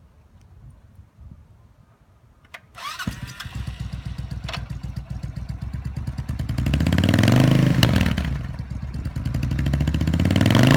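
2006 Suzuki S83 Boulevard's 1400cc oil-cooled V-twin starting after a click and brief cranking about three seconds in, then idling. It is revved twice, each time rising and falling back to idle.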